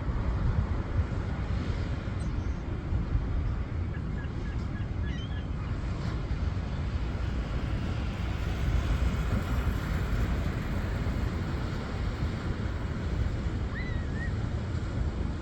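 Wind buffeting the microphone in a steady low rumble. Faint short bird chirps come through a few times about four to five seconds in, and once more near the end.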